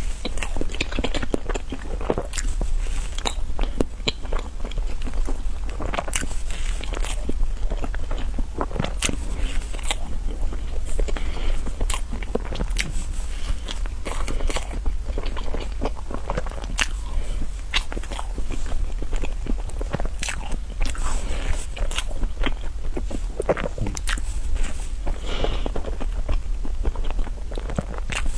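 Close-miked biting and chewing of a cream roll: a steady run of irregular wet mouth clicks and smacks.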